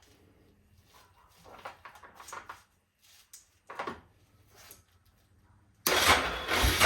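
A few light knocks and rustles of handling, then a sudden loud, rough mechanical clatter that starts near the end.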